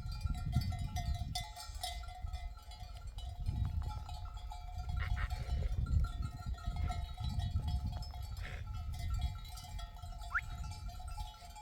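Bells on a grazing flock of sheep ringing and clinking continuously over a low rumble, with a short rising chirp near the end.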